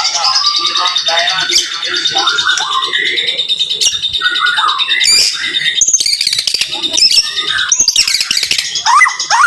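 White-rumped shama (murai batu) singing a rapid, varied song of whistles, chirps and trills, with a run of quick rising whistled notes near the end.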